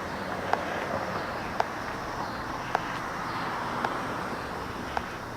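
Sharp clicks at an even pace, about one a second, over a steady hiss of background noise.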